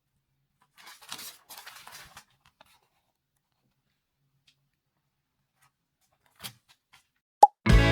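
Light rustling for about a second and a half, then a few small clicks, as Lego pieces and their bag are handled; music starts just before the end.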